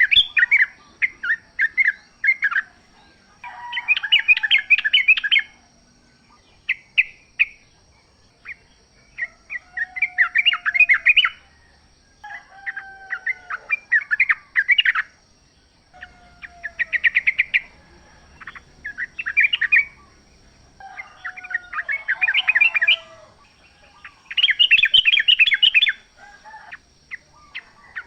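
Yellow-vented bulbul song: repeated phrases of rapid, bubbly chattering notes, one every couple of seconds, with lower sliding notes between phrases. A faint steady high tone runs underneath.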